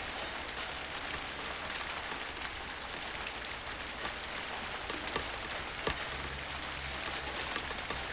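Steady rain falling on a surface, with scattered individual drops ticking sharply. A faint low rumble joins about six seconds in.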